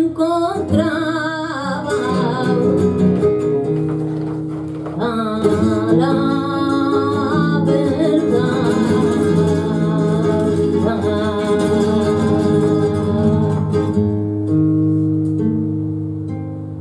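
Flamenco singing of a petenera, a long, wavering, ornamented sung line over flamenco guitar accompaniment. The voice stops a couple of seconds before the end, leaving the guitar playing alone.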